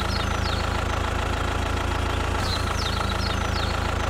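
Tractor engine idling steadily, a low even chugging hum. Short high descending chirps come and go over it a few times.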